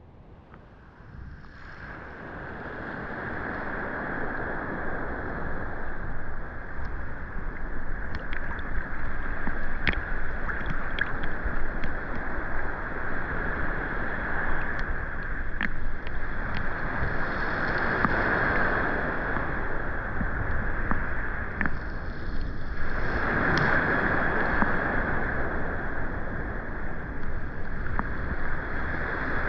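Rain falling on the sea: a steady hiss with scattered sharp ticks of single drops. It fades in over the first few seconds and swells louder twice, past the middle and again about two-thirds of the way through.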